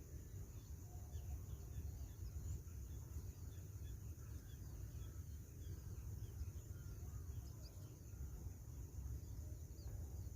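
Insects droning steadily at a high pitch, with many short faint chirps scattered throughout, over a low steady rumble.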